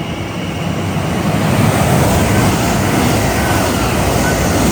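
A train passing close by on the main line: a loud rushing roar of wheels and air that builds over the first second or two and stays loud.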